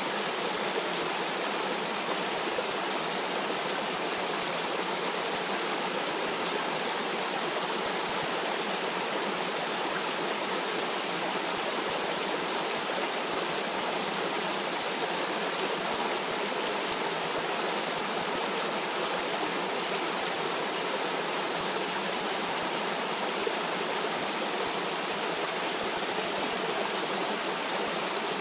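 A stream of water running over rocks in a steady, unbroken rush with no single splashes standing out.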